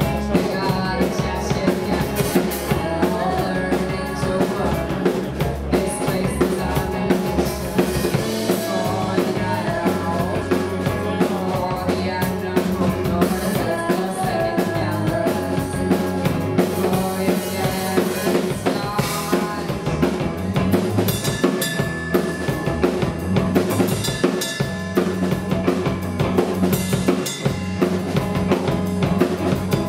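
Live rock band playing: a drum kit keeping a steady beat with kick and snare, over electric guitars and bass guitar.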